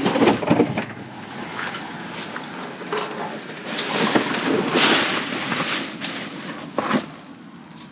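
Rustling and irregular knocks of trash being handled and shifted inside a dumpster, with a couple of sharper knocks near the middle and end before it goes quieter.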